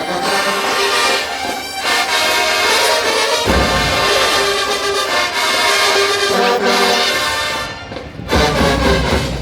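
HBCU marching band's brass section playing held chords. Deep low notes join about three and a half seconds in, and the band breaks off briefly near the end before coming back in.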